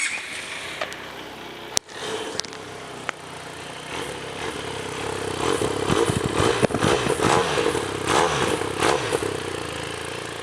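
Benelli TRK 502's parallel-twin engine and exhaust idling, with a sharp click about two seconds in, then revved up and down several times from about five to nine seconds in before settling back to idle.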